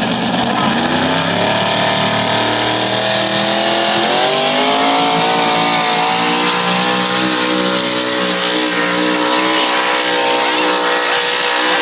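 Competition pulling truck's engine running at full throttle under load during a pull: the revs climb in two steps over the first four seconds, then hold high and steady.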